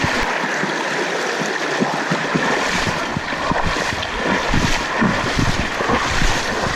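Steady rush of river water through rapids, with wind buffeting the microphone in irregular low thumps.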